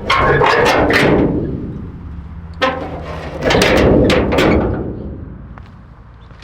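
Two loud bursts of scraping and rattling, each a second or so long, one at the start and one about three and a half seconds in, over a steady low hum.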